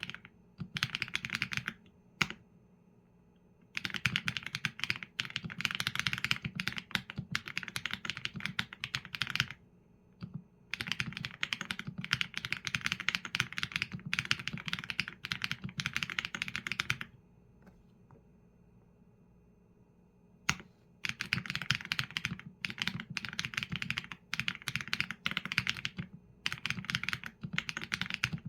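Typing on a mechanical keyboard with Leobog Graywood V4 linear switches and PBT keycaps: fast runs of keystrokes, each a sharp click with a low thud under it, broken by short pauses and one longer pause of about three seconds in the middle.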